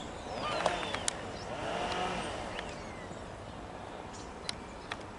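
A Class 171 Turbostar diesel multiple unit approaching at a distance as a low, steady rumble. Gulls overhead give a few rising-and-falling calls, the loudest about half a second and two seconds in.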